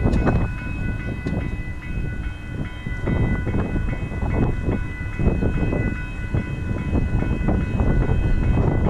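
Train passing over a road level crossing: a heavy rumble with many irregular clacks and knocks of the wheels on the rails. Several steady high tones sound through it.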